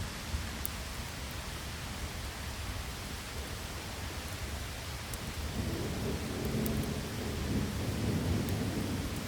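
Steady rain, with a low rumble of thunder building from about halfway through and running on to the end.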